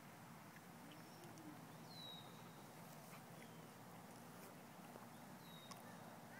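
Near silence: faint outdoor background with a couple of brief high bird chirps.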